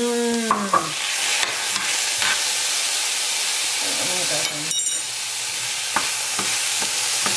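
Diced onions, mushrooms and jalapeños sizzling in hot olive oil in a skillet, a steady hiss, with one light clink near the middle and a wooden spoon stirring and scraping through the vegetables toward the end.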